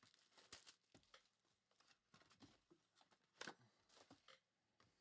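Near silence with a few faint clicks and light rustles of packaging being handled, the clearest about half a second in and about three and a half seconds in.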